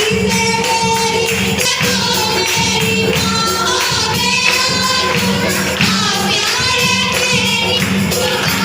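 A group of voices singing a worship song together, accompanied by a tambourine.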